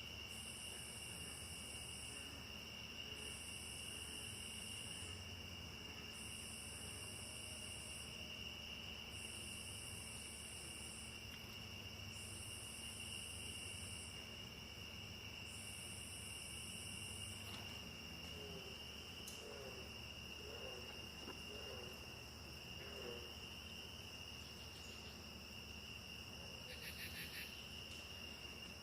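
Rainforest insect chorus: two steady, high, unbroken buzzing tones, with a higher buzz that comes in spells of about two seconds roughly every three seconds and stops about two-thirds of the way through. A few faint lower chirping calls follow, and a brief rapid trill comes near the end.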